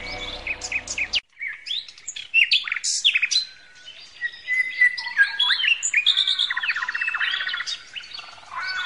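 Many small birds chirping and trilling together: overlapping short chirps, quick downward sweeps and fast buzzy trills. A music track stops abruptly about a second in, leaving only the birds.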